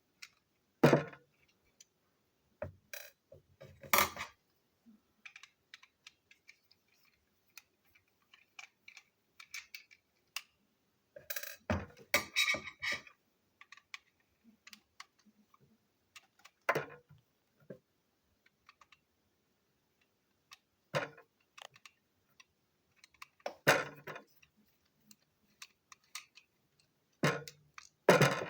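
Small plastic toy train parts clicking and clattering as they are handled and fitted together, in scattered bursts of knocks with quiet gaps between, the busiest cluster about twelve seconds in.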